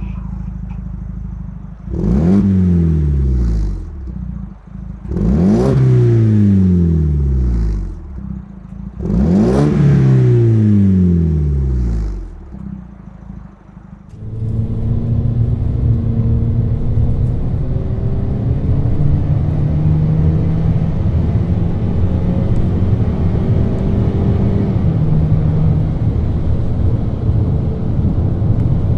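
2022 Ford Maverick's 2.0 L EcoBoost turbocharged four-cylinder through an aFe Rebel cat-back exhaust, revved three times from idle, each rev climbing quickly and falling back over a couple of seconds. About halfway through it settles into a steady, deeper exhaust drone whose pitch drifts slowly.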